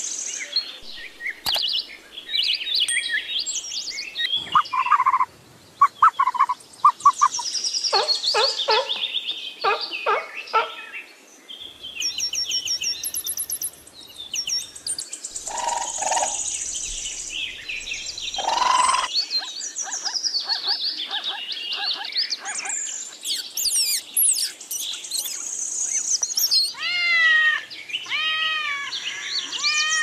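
A changing series of bird calls: high chirps, rapid trills and whistled glides, one kind of call after another. Near the end comes a run of repeated arching calls.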